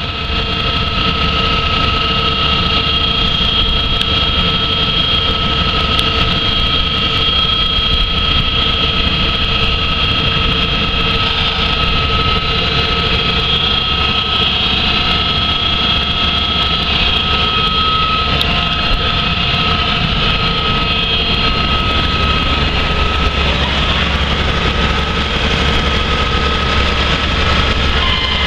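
2012 Case IH 225 hp tractor's diesel engine running steadily, with a steady high whine over the engine noise.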